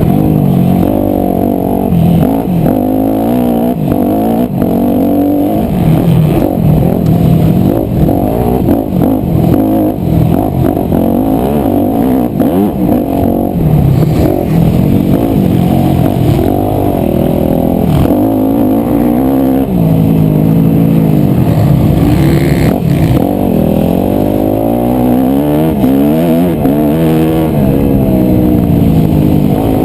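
250cc single-cylinder four-stroke motocross bike engine revving hard and falling off again and again, its pitch climbing and dropping as the throttle is worked and gears change.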